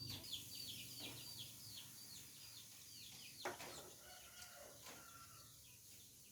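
Chicks peeping: a quick run of short, high, falling peeps that thins out after about four seconds. There is a single knock about three and a half seconds in.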